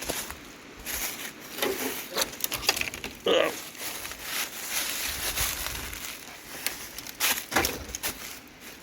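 Footsteps crunching and rustling through dry brush and debris, with irregular crackles and snaps underfoot. A short pitched sound about three seconds in stands out above the crunching.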